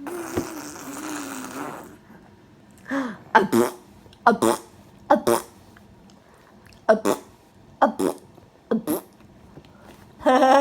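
A baby making funny vocal noises: a voiced raspberry blown through the lips for about two seconds, then a string of short squeals and grunts, ending in a slightly longer cry-like squeal.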